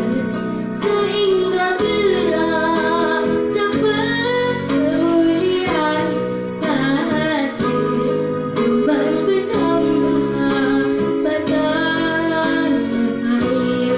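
A young girl singing a song in a clear, sustained voice over instrumental accompaniment.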